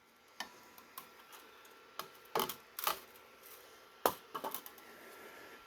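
Scattered light clicks and taps, about seven of them at uneven intervals, over a faint background hiss.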